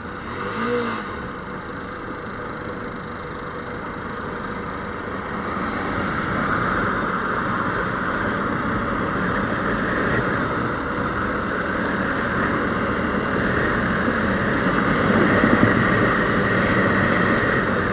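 Motorcycle engine running under way, with wind rushing over the microphone; the noise grows louder about five seconds in.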